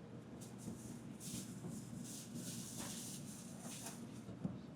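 Steady low hum of a stationary N700 Shinkansen car's cabin, with several short rustles and faint clicks of bags and cables being handled at the seat.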